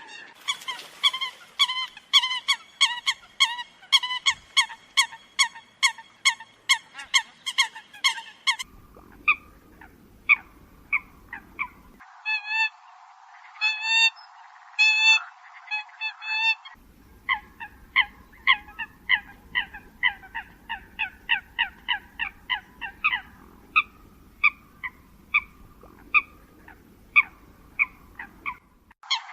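Eurasian coots calling: a rapid series of short, nasal honking notes, about two to three a second. The recording is spliced, with abrupt changes in background noise several times.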